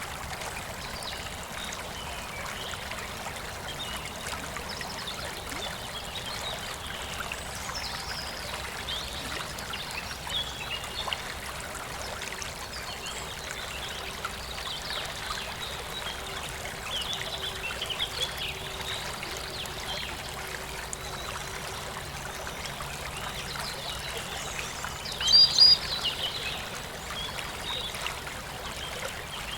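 Stream of running water trickling steadily, with birds chirping over it in short scattered calls and one louder burst of calls near the end.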